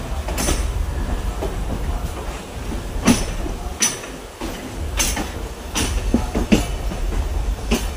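A train rolling slowly over points and rail joints: a steady low rumble broken by about eight sharp, irregular clacks of the wheels crossing the joints and switches.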